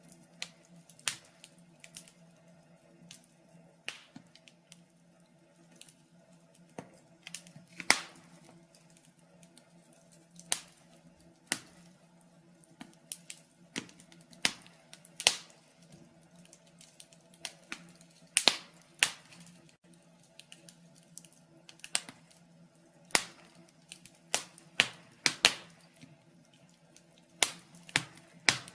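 Wood fire in a fireplace crackling, with sharp pops and snaps at irregular intervals, some much louder than others, over a faint steady low hum.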